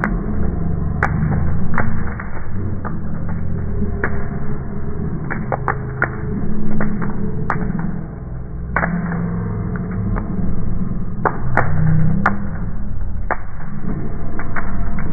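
Bonfire crackling, with sharp pops at irregular intervals, a dozen or more, over a steady low rumble.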